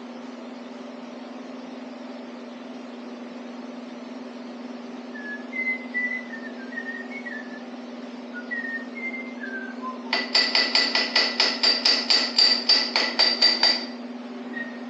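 A few short whistled notes, then a quick run of hammer blows on metal, about four a second for nearly four seconds, each strike ringing. A steady low hum runs underneath throughout.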